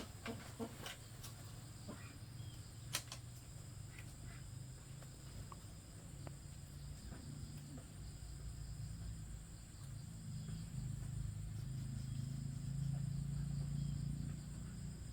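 Steady high insect chirring, with a few sharp knocks in the first three seconds, the loudest about three seconds in. A low rumble underneath grows louder in the second half.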